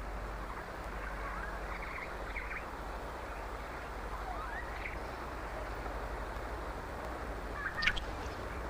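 Natural field ambience: a steady background hiss with a few faint short chirping calls, and one brief louder call near the end.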